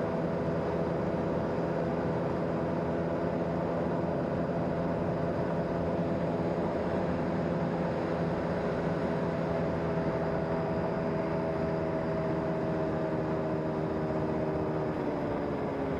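The engine of the vehicle he is riding runs steadily at cruising speed with road and wind noise; in the last few seconds its pitch drops gently as it slows down.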